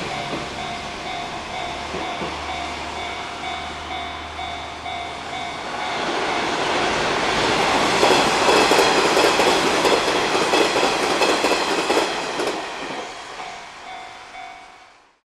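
Trains passing at a rail flyover: one running off over the steel girder bridge overhead, then a second train passing on the tracks below, loudest in the middle with wheels clicking over rail joints, and fading away near the end.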